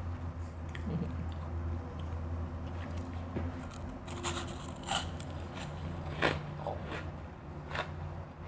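Close-up crunching as refrozen crushed ice is bitten and chewed: irregular crisp crunches, several louder ones from about the middle on, over a steady low hum.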